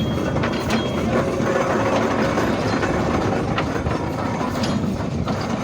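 Steam traction engine working, a steady mechanical clatter with occasional clicks.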